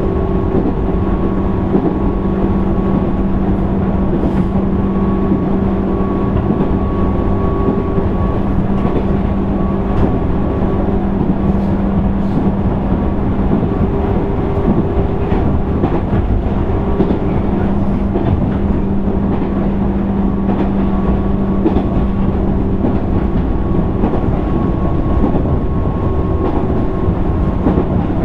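Interior running sound of a JR 205 series 600 subseries electric train, heard in motor car MoHa 204-604: a steady rumble of wheels on rail and running gear with a steady electrical hum, and occasional light rail-joint clicks. The lowest hum drops out for a few seconds about midway and then returns.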